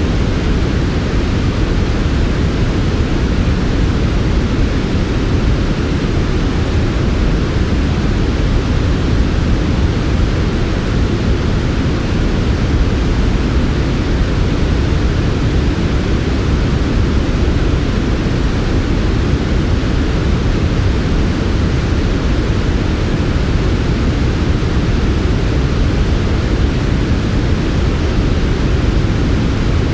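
Steady, unbroken white noise, strongest as a deep low rumble with a softer hiss above it.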